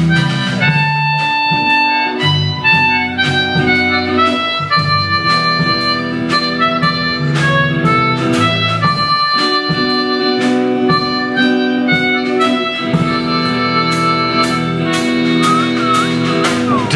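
Instrumental break of a folk song: an accordion plays a melody of held notes over sustained chords and a steady beat.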